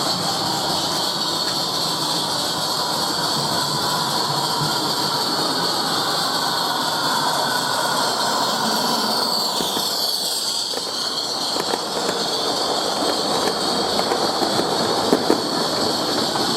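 Live steam miniature locomotive running with a steady hiss of steam. The sound shifts about ten seconds in, and a few sharp clicks come near the end.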